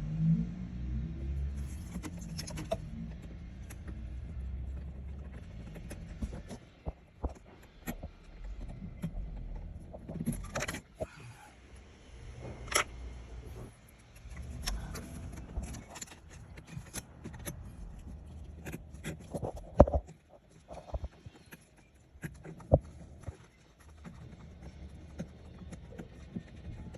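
Scattered metal clinks, knocks and scrapes of hand tools working on the bolts of a car's AC expansion valve, with low handling rumble. A few sharp knocks stand out, the loudest about two-thirds of the way in.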